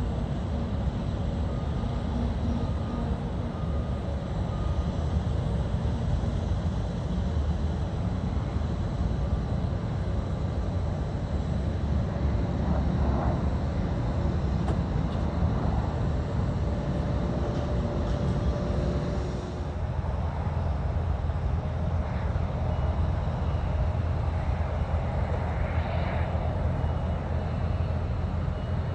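Jet airliner engines heard as a steady low rumble, with faint steady whining tones above it.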